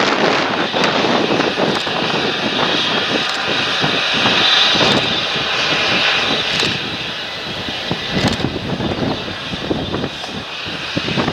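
Large John Deere tractor engine working in the field, with a steady high whine over the engine noise that stops near the end.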